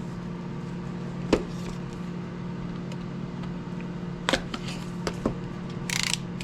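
Small cardboard packaging being handled and opened: a few light clicks and taps, then a brief rustle near the end, over a steady low hum.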